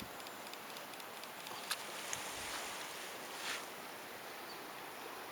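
Quiet outdoor background hiss, with a sharp click about a second and a half in and a brief rustle a little after the middle.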